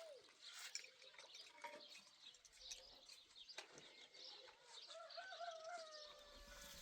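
Faint outdoor ambience with scattered light clicks and knocks, and a faint wavering drawn-out call that starts about five seconds in.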